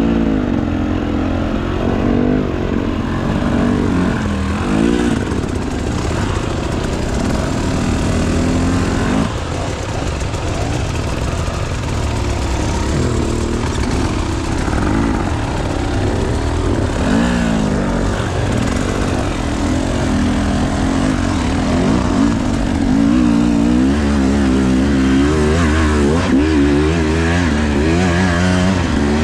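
2024 GasGas EC 300 TBI two-stroke enduro motorcycle engine running hard, its pitch rising and falling over and over as the throttle is worked, with quicker throttle blips in the last few seconds.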